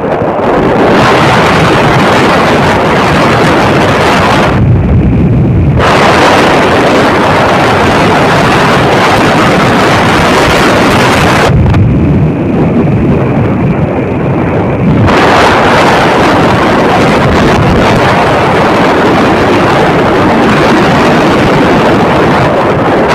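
Loud wind buffeting the microphone, a dense roar that swells into a low rumble twice, about five seconds in and again around twelve to fifteen seconds.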